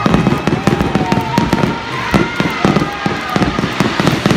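Fireworks going off in rapid succession, a dense run of bangs, with whistling tones gliding over them.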